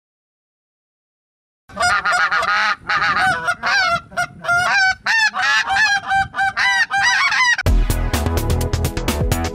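A flock of birds calling over and over in short, pitched cries, starting about two seconds in after dead silence. About three-quarters of the way through, a loud low rumble of wind buffeting the microphone joins the calls.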